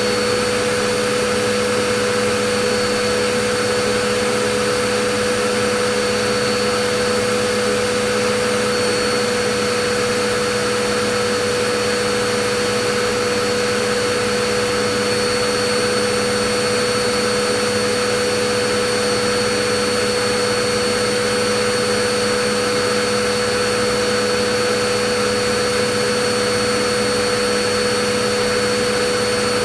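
Vacuum cleaner running steadily: a constant motor whine with a strong hum and a high tone over the rush of air, without any change.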